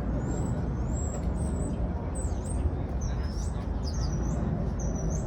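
Small birds chirping over and over in short, high, gliding notes above a steady low outdoor rumble and murmur.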